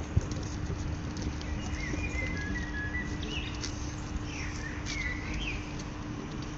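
Small birds chirping and whistling in short, quick phrases over a steady low outdoor rumble and a faint steady hum. There is one sharp knock just after the start.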